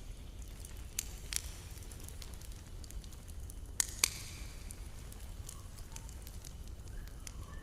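Campfire crackling, with sharp pops about a second in and a pair of louder pops near the middle, over a steady low rumble.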